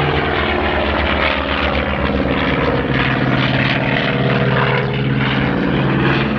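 Propeller airplane engine droning loudly and steadily as the plane flies by.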